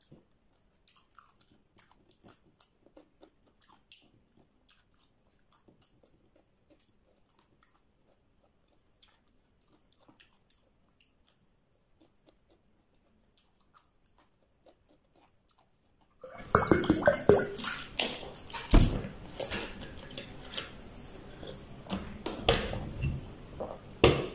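A person eating chicken wings with close mouth sounds, chewing and biting, faint and sparse at first. About two-thirds through the sound turns suddenly much louder, with a few sharp knocks.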